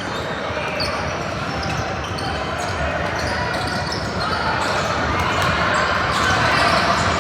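Indoor game sounds: a ball bouncing on a gym floor and sneakers squeaking, over indistinct voices of players and spectators.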